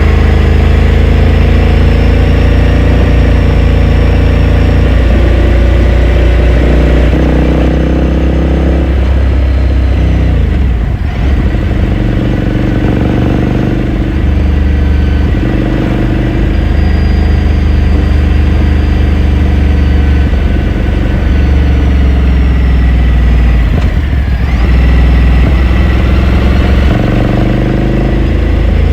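2018 Ducati Scrambler Sixty2's air-cooled L-twin engine running under way, heard onboard. Its pitch falls away twice, about eleven seconds in and again near twenty-four seconds, with a brief dip in level, then picks up again.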